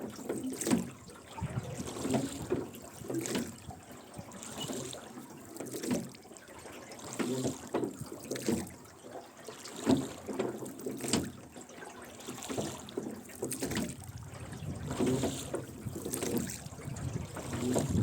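Oars of a rowboat dipping and pulling through river water in repeated strokes, splashing and trickling, with the oarlocks creaking.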